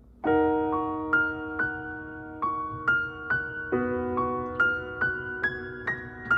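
Background music: a piano intro playing repeated notes and chords at a steady pace, about two strikes a second, starting just after the beginning.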